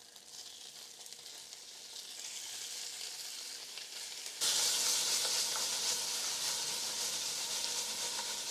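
Hot oil with chili bean paste and garlic sizzling in a pan, growing gradually louder, then a sudden, much louder burst of sizzling about four and a half seconds in as the tofu goes into the hot oil; the sizzle then slowly eases off.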